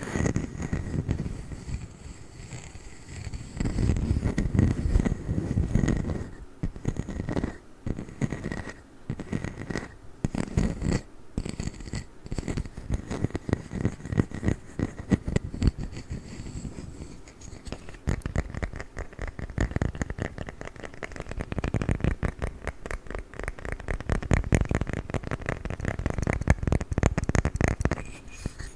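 Rapid tapping and scratching on a wooden lid, a dense run of short strokes that swells and eases.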